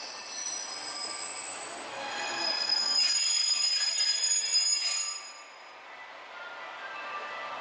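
Steel wheels squealing against a steel rail or cable, a steady high-pitched squeal of several tones over a running rumble, fading out about five seconds in.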